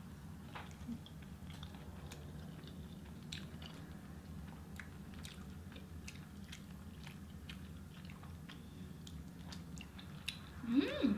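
People chewing soft food (a cheeseburger and cinnamon-filled pastry bites), with faint wet mouth clicks scattered throughout over a steady low hum. A short voiced hum comes near the end.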